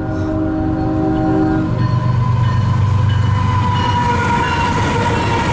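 CSX freight train passing: its locomotive horn sounds a steady chord that stops about two seconds in. The horn gives way to a louder locomotive rumble with a thin steady high tone above it.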